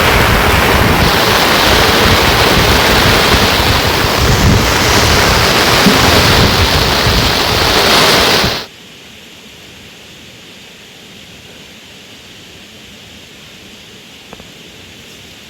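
Loud steady rushing noise that cuts off abruptly about nine seconds in, leaving a much quieter steady hiss.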